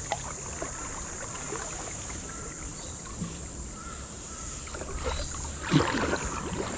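Kayak paddling: paddle strokes and water splashing against the hull, with a sharper knock or splash about six seconds in, over a steady high-pitched buzz.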